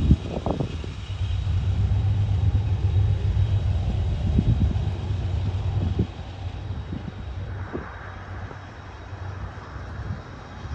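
Union Pacific freight train rumbling by on the main line, a steady low rumble with a few short knocks; it drops in level about six seconds in.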